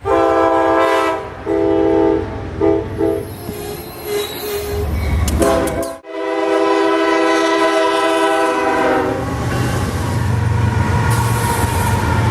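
Diesel freight locomotive's air horn sounding the grade-crossing signal: two long blasts, a short one, then a long blast. After it, the locomotive's deep engine rumble and wheel noise grow louder as the train comes up.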